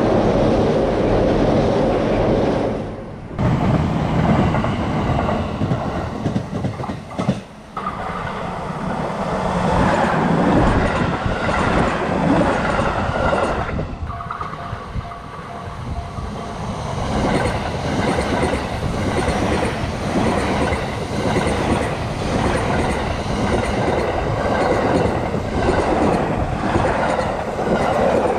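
A white-and-blue limited-express electric train running past, its wheels clattering rhythmically over the rail joints. A short repeating high tone sounds about halfway through.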